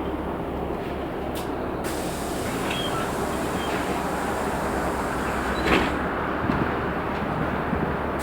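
Inside a LiAZ 6213.65 bus under way: a steady rumble of engine and road noise. A higher hiss comes in about two seconds in and stays, and there is a short knock near six seconds.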